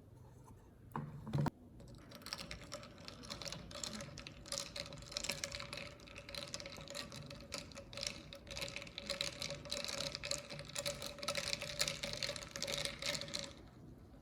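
Capsule coffee machine brewing: a click about a second in, then the pump runs with a steady hum and a dense crackle for about eleven seconds before cutting off abruptly.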